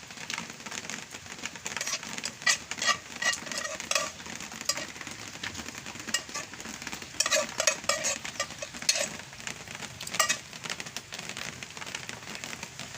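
Fried noodles sizzling in a pan while being stirred, a metal utensil clinking and scraping against the pan in a few quick clusters over a steady hiss.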